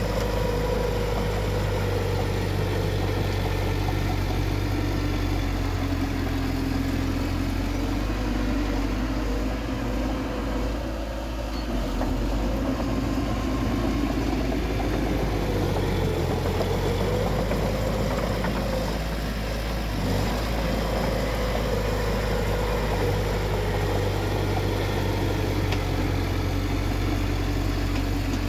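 Bulldozer's diesel engine running steadily with a deep hum, its pitch sagging and recovering a little, and easing briefly twice.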